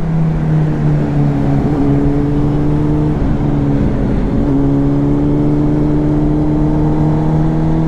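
Sport motorcycle engine running at a steady speed while riding, with wind rushing over the microphone; the engine note wavers briefly about three to four seconds in, then holds steady again.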